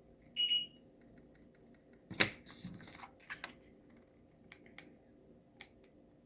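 Crafting tools and materials handled on a work table: a brief squeak, then a sharp clack about two seconds in followed by a short run of lighter clicks, and a few faint ticks near the end.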